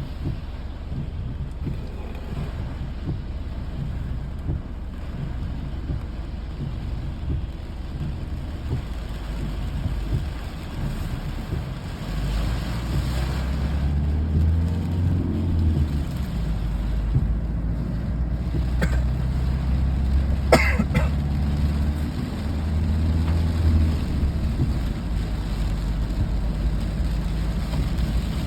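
Continuous low rumble with a steady low hum, growing heavier about twelve seconds in, and one sharp click a little past twenty seconds.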